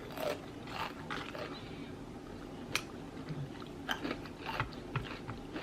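A person chewing food close to the microphone, with scattered small mouth clicks and smacks, one sharper click a little under three seconds in.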